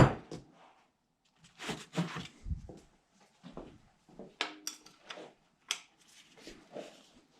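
A 1/2-inch wrench clinking, scraping and knocking in short, irregular bursts as it works the distributor hold-down on a cast iron Cadillac V8, with a brief metallic ring about four and a half seconds in.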